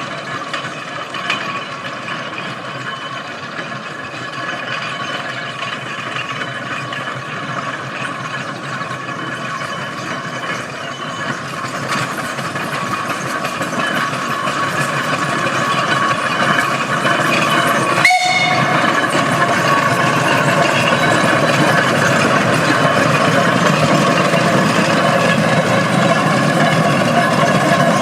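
1910 Burrell 8hp steam traction engine running, growing louder over the second half. There is a brief sudden break about two thirds of the way through.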